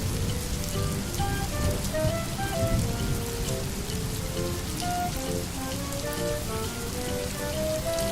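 Steady heavy rain falling, a continuous hiss full of fine drop ticks with a low rumble underneath. Short, soft pitched notes are scattered through it.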